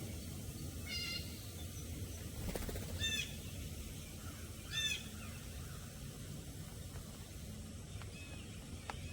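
A wild bird calling three times, about two seconds apart, over a steady low background noise.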